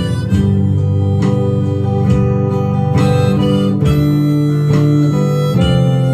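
Acoustic guitar strummed about once a second under a harmonica playing long held notes: an instrumental break of a folk song with no singing.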